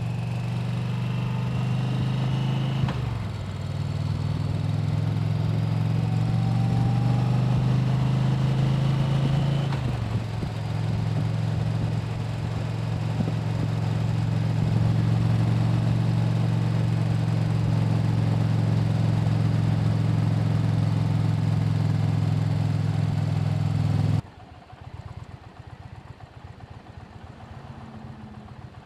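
Motorcycle engine running steadily under way, dipping briefly twice. About 24 seconds in the sound drops suddenly to a much quieter low rumble.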